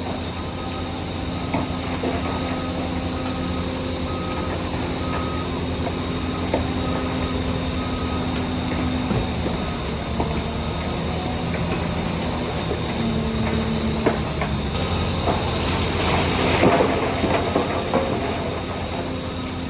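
Crawler bulldozer working: its diesel engine runs steadily, with the clank and squeal of steel tracks. The engine note shifts partway through, and a louder, noisier stretch comes about fifteen seconds in. A faint repeating beep sounds during the first several seconds.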